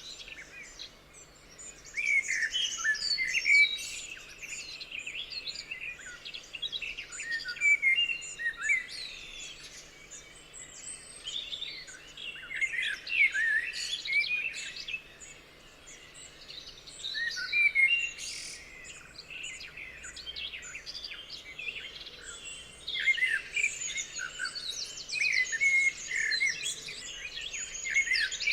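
Several forest songbirds singing and chirping at once, in overlapping bursts of short rising and falling notes with brief lulls between them.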